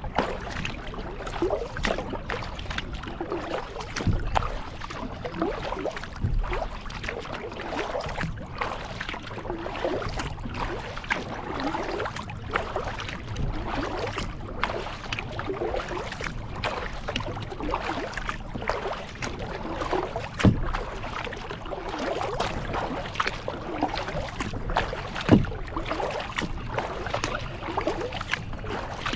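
Kayak paddle strokes dipping and splashing in lake water in a steady rhythm, with water swishing and dripping, and a few sharp knocks.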